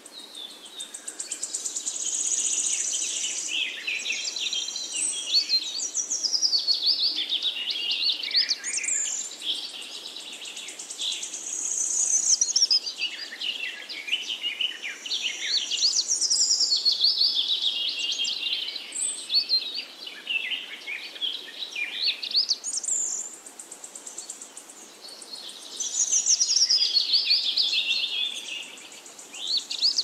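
Songbirds singing and chirping: many overlapping high whistled phrases and rapid buzzy trills, swelling and fading in waves every few seconds.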